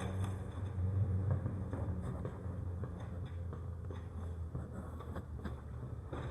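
Garbage truck's diesel engine running with a low rumble that slowly fades, with a few faint clicks.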